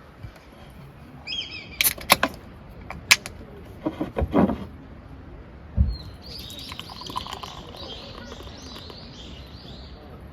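Small birds chirping, a short call early on and a longer run of quick chirps in the second half. Several sharp clicks or knocks come about two to four seconds in, and a dull thud comes around six seconds.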